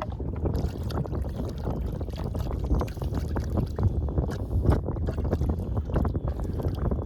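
Wind buffeting the microphone and choppy water slapping against a Sea-Doo Fish Pro's hull: a steady low rumble broken by many small, irregular knocks.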